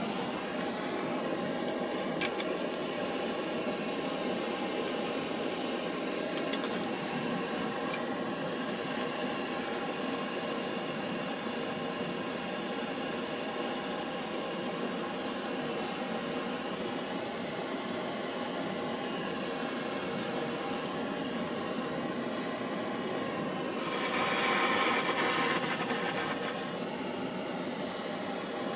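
Blowtorch flame running steadily while soldering copper oil feed pipe fittings, with a louder stretch about 24 seconds in.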